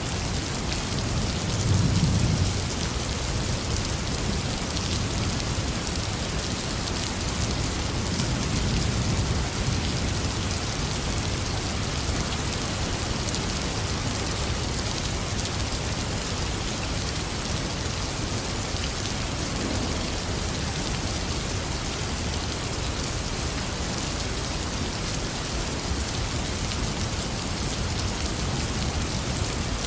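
Heavy rain falling steadily, with low rumbles of thunder about two seconds in and again around eight to ten seconds in.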